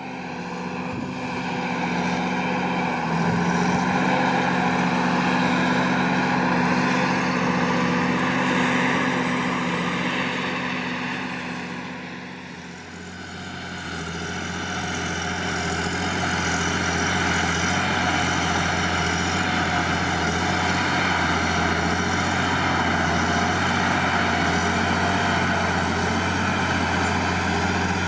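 John Deere 8520T tracked tractor's 8.1-litre PowerTech six-cylinder diesel running hard while pulling a plough. It swells in at the start, dips briefly about halfway with a change in pitch, then runs steadily.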